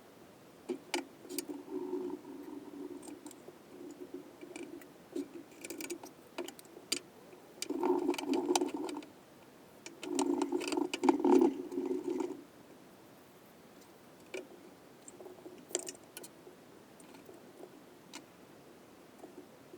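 Metal engine parts and hand tools being handled during engine assembly: scattered sharp clicks and light knocks, with three longer stretches of a steady low rubbing noise, the loudest about eleven seconds in.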